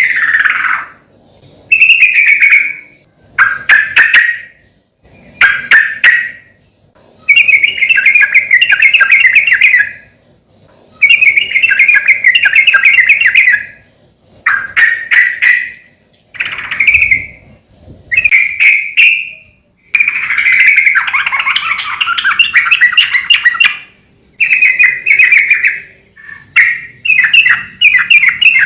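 Yellow-vented bulbul (trucukan) singing loudly, a string of bubbly, warbling phrases. Each phrase lasts from under a second to about three seconds, with short pauses between them. This is the lively, full song that bird keepers play to caged bulbuls as a model to get them singing.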